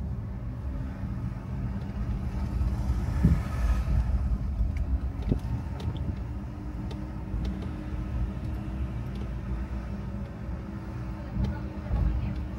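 Car driving on a road: a steady low rumble of engine and tyres, with a brief swell of hiss about three seconds in.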